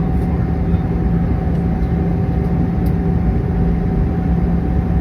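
Airbus A319 cabin noise during descent: a steady drone of engines and airflow with a constant hum running through it.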